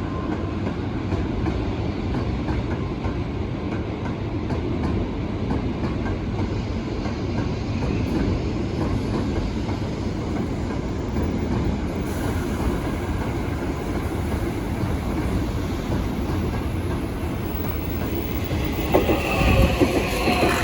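A train running past on rails: a steady rumble with wheel clatter. About a second before the end come sharp clacks and a squealing tone from the wheels.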